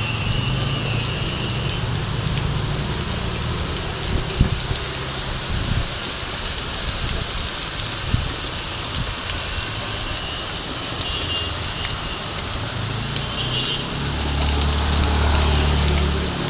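Heavy rain pouring steadily. A motor vehicle's engine runs under it, growing louder for a few seconds near the end. A couple of brief knocks come in the middle.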